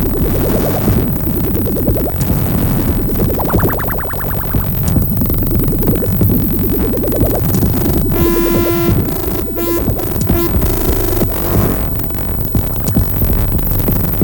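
Electronic music from a rig of hardware synthesizers and a drum machine: dense, noisy pulsing textures with filter sweeps that swell up and fall back. A steady buzzy held tone comes in about two-thirds of the way through.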